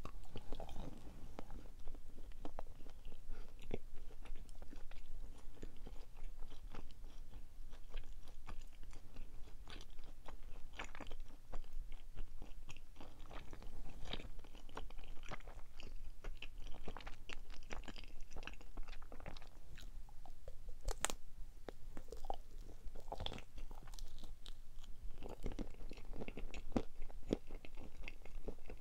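Close chewing and wet mouth clicks of someone eating a chocolate-coated marshmallow, with one sharper click about two-thirds of the way through.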